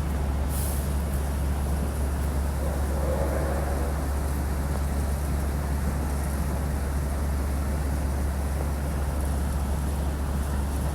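Steady low rumble of railway platform ambience, with a brief high hiss about half a second in.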